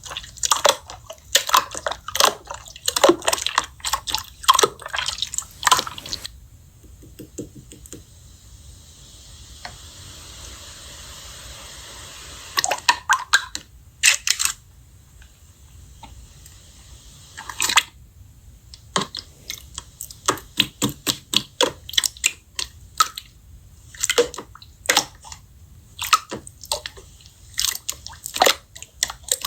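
Slime being squished and pressed by hand, making rapid wet clicks and pops. Partway through there is a quieter stretch of soft hiss, then the clicking and popping starts again.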